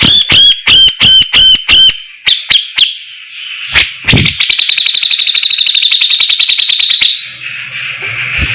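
Javan cucak jenggot (bulbul) singing loudly. It starts with a run of about six sharp, down-slurred whistled notes, adds a few short notes, then gives a fast, even chattering trill of about ten notes a second for nearly three seconds.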